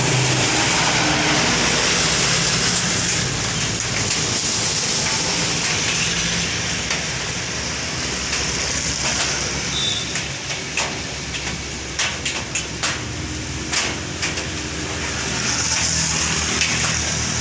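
Vehicle engine running with road and wind noise, the engine note fading after the first few seconds into a steady hiss. A run of sharp clicks or knocks comes about ten to fourteen seconds in.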